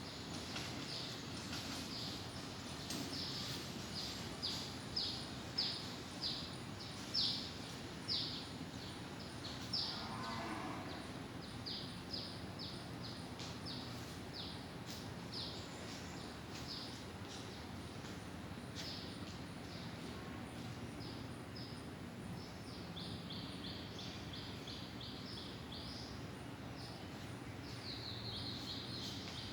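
A bird calling in a long series of short, high chirps that fall in pitch, about two a second. They are louder for a few seconds near the start, there is one lower call about ten seconds in, and the chirps come quicker near the end, over steady background noise.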